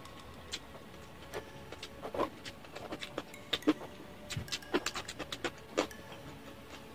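Close-miked chewing of crispy deep-fried pork skin: an irregular run of sharp crunching snaps and mouth clicks.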